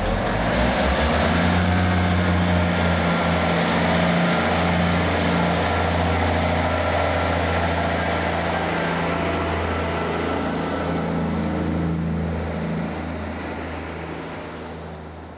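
Diesel passenger train engine running with a steady low hum and a hiss, fading out over the last few seconds.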